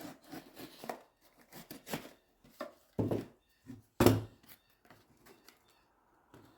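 Scattered taps and knocks of hard parts being handled and set down on a workbench, with two louder knocks about three and four seconds in.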